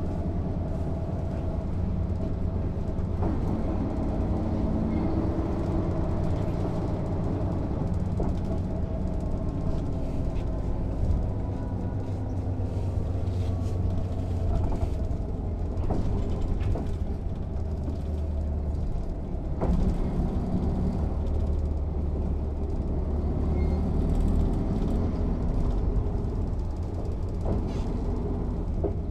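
Mercedes-Benz O 407 bus's six-cylinder diesel engine running steadily under way, heard from on board as a low drone whose pitch rises and falls a little with speed. A few short knocks and rattles come through over it.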